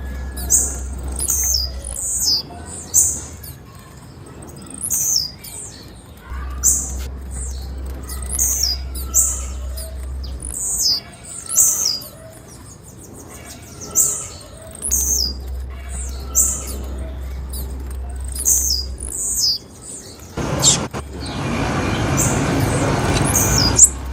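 Female blue-black grassquit (tiziu) calling: short, high chirps repeated in small clusters every second or two. Near the end a few seconds of rushing noise rise over them.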